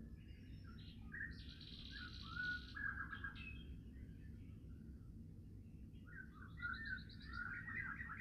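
A songbird singing two phrases of varied chirps and warbled notes, one about a second in that includes a high rapid trill, another from about six seconds in, over a steady low rumble of wind or distant background noise.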